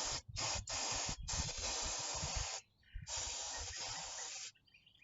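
Aerosol can of Prestone starting fluid hissing as it is sprayed into a car's throttle body, in several bursts with short breaks between them, the last about a second and a half long and stopping sharply. The spraying is a crank-no-start test for a suspected failed fuel pump.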